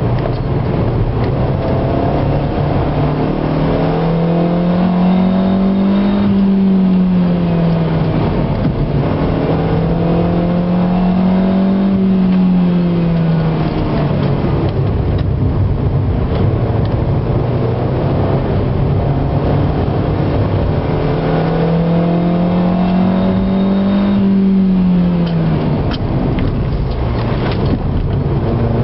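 Car engine heard from inside the cabin while lapping a race circuit. Its pitch climbs under acceleration and drops back three times as the driver lifts off, over steady road and tyre noise.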